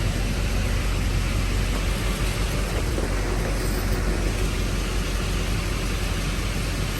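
A vehicle engine running steadily, a low hum under an even rushing noise.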